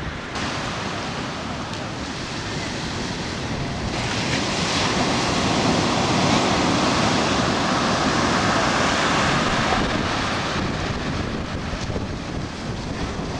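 Ocean surf washing against the shore, a swell that builds about four seconds in, holds for several seconds and then eases off, with wind buffeting the microphone.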